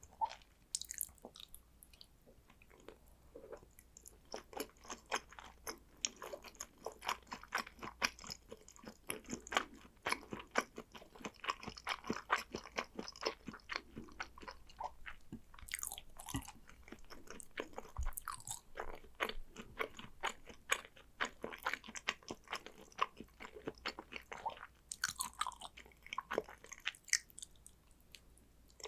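A person chewing salmon sushi: a steady run of many small mouth clicks, with a few louder bites along the way.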